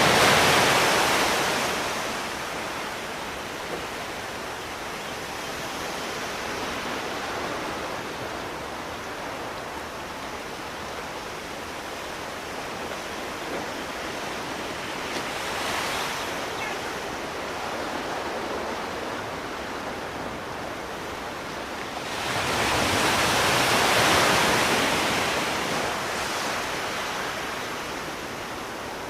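Sea waves breaking on the shore over a steady wash of surf: one wave is cresting as it begins, a small one comes in near the middle, and a big one builds and breaks about three quarters of the way through.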